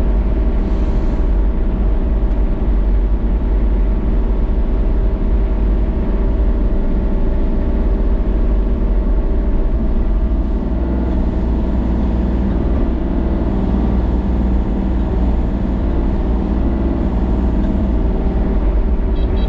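A motor vehicle engine running steadily at a constant speed, with a strong low rumble and an unchanging drone.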